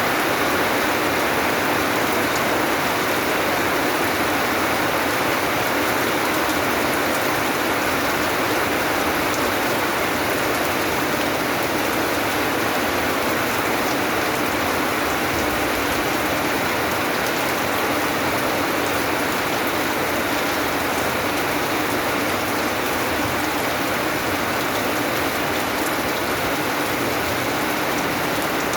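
Steady rain, falling without letup, with fine patter of drops on a surface.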